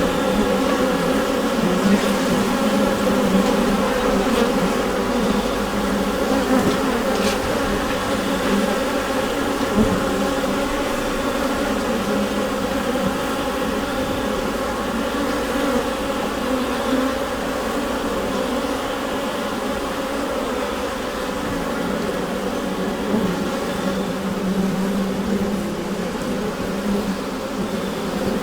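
Honeybee colony heard from inside the hive: a dense, steady buzzing hum of many bees, with a strong low drone and several overlapping higher tones.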